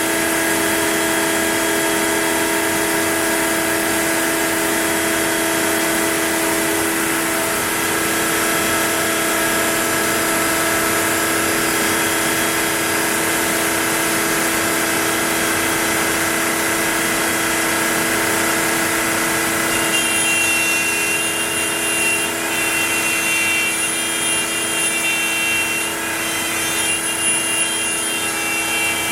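Onefinity CNC router running a wood-carving job: a steady machine whine with several held tones. From about 20 s in, higher-pitched tones come and go as the cut goes on.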